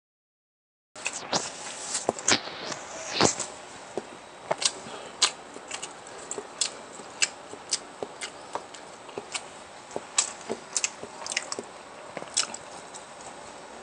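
Close-miked eating: a person chewing and biting food, with frequent sharp, irregular crunchy clicks and wet mouth sounds. The first second is dead silent.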